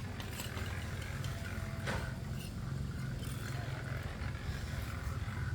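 A motor running steadily with a low, pulsing rumble, with scattered light clicks and knocks over it.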